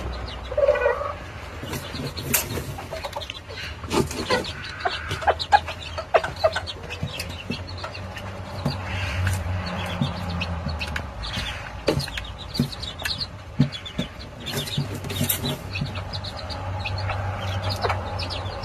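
Hen clucking softly while her chicks peep in short high notes, with scattered sharp taps as they feed.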